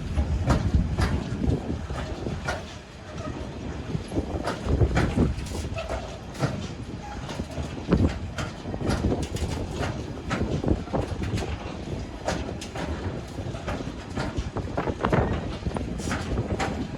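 A train rolling past, its wheels clicking over rail joints in an irregular run of sharp clicks over a low rumble.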